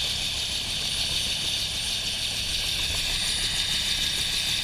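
Bell UH-1 Huey helicopter's turbine engine and rotor running steadily, heard from inside the cabin: an even rushing noise with a high whine and a low rumble underneath.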